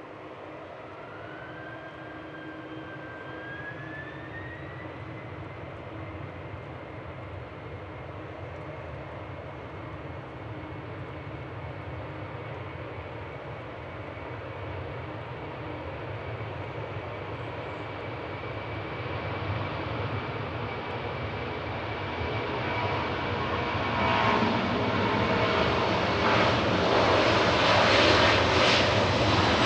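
Jet airliner engines running, with a whine that climbs in pitch over the first few seconds and then holds steady, while the engine noise grows steadily louder and fuller as the aircraft comes closer, loudest near the end.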